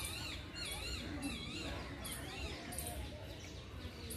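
Wild songbirds calling, with warbling notes that wobble up and down in pitch and short high notes about once a second, over a steady low rumble.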